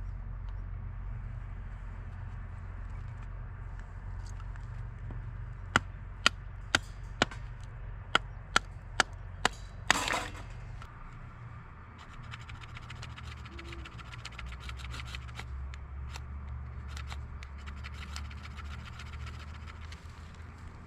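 A run of about nine sharp clicks, roughly two a second, ending in a short rush of noise, over a steady low rumble; after it a faint, fine rapid crackle.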